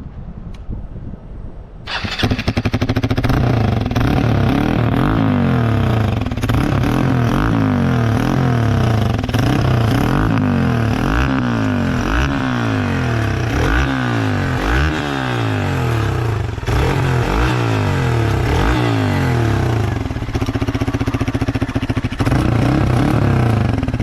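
Hero XPulse 200 4V's single-cylinder four-stroke engine through a Devil Evolution aftermarket exhaust. The exhaust note jumps loud about two seconds in. The engine is then revved again and again, its pitch rising and falling, before settling to a steadier run near the end.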